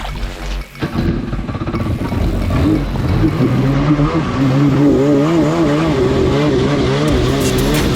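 Jet ski's two-stroke engine coming up to speed about a second in, then running hard at high revs, its pitch wavering up and down.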